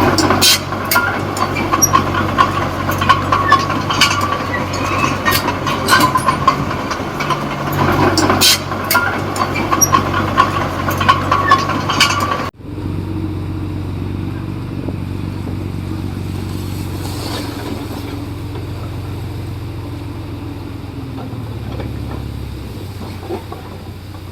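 Komatsu D20P crawler bulldozer's diesel engine running under load, with frequent clanks and rattles from the tracks and blade. About halfway through the sound cuts abruptly to a steadier engine hum without the clanking, whose low tone drops near the end.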